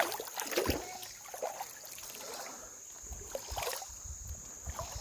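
Creek water splashing and trickling around wading legs and hands, with a sharp knock at the start and irregular low rumbles.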